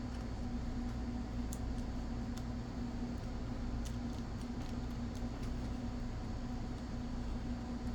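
Light, scattered clicks of small locomotive parts and tools being handled during reassembly, over a steady low electrical hum.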